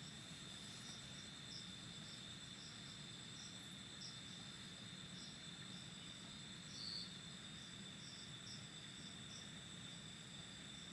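Faint chorus of crickets: a steady high-pitched trill, with short chirps repeating roughly once a second and one louder chirp about seven seconds in.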